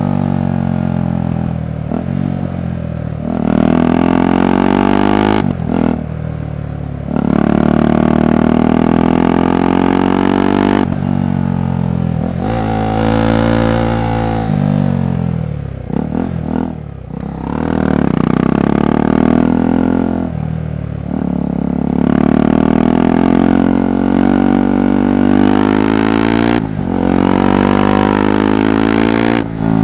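KTM 390 Adventure's single-cylinder engine and exhaust pulling hard through the gears. The pitch climbs and drops back again and again as it revs up and shifts, with a few short lulls as the throttle comes off.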